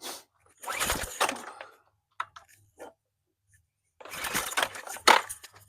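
Recoil starter cord of a pressure washer's small gas engine pulled twice, each pull a short whirring rasp, and the engine does not catch. The engine's stop/run switch was still set to stop.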